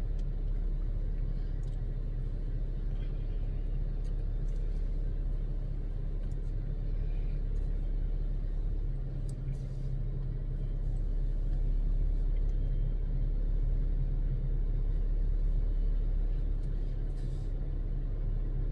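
Steady low rumble of a car's cabin with the engine running, with a few faint clicks.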